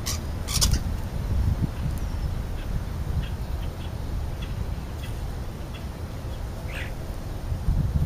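Birds feeding on the ground giving two short harsh squawks near the start and another call near the end, with a few faint chirps between, over a steady low rumble.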